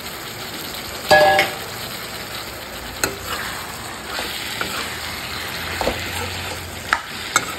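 Beef intestine pieces sizzling as they fry in masala in a black iron kadai, stirred with a metal spatula. A loud metal clank against the pan about a second in, and a few lighter scrapes and taps later.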